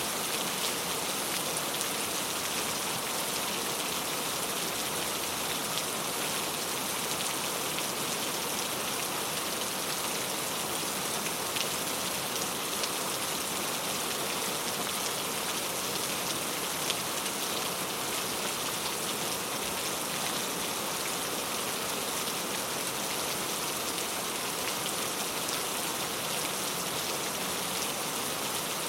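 Steady heavy rain, an even hiss of drops falling on a surface with fine scattered pattering, with no thunder or music.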